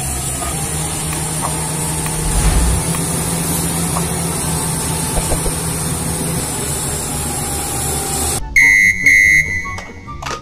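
Crawler bulldozer's diesel engine running steadily as the machine pushes dirt, a low hum under hiss. About eight seconds in it cuts off abruptly and two loud, short electronic beeps sound, followed by light clicks of plastic toys being handled.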